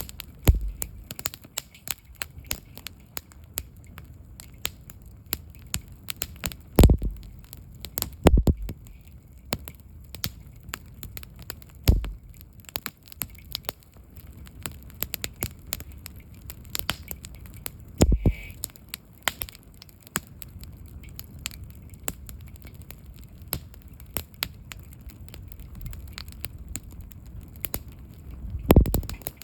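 Wood campfire crackling in a fire stand, burning down after its stacked logs have collapsed. It makes a steady run of small crackles, with a handful of louder pops spread through.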